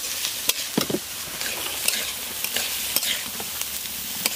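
Carrots and other vegetables sizzling in mustard oil in a pan as they are stirred, with a steady frying hiss and frequent sharp clicks of the utensil against the pan.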